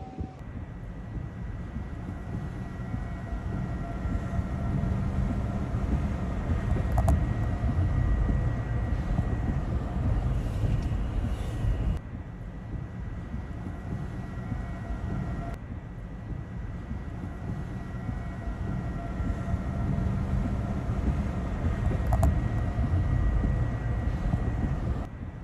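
A steady, heavy low rumble with faint steady whines above it, dropping off briefly a few times.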